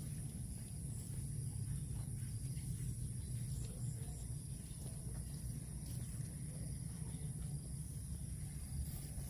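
Steady outdoor background noise: a low rumble with a thin, continuous high-pitched tone over it and a few faint ticks; no cow calls.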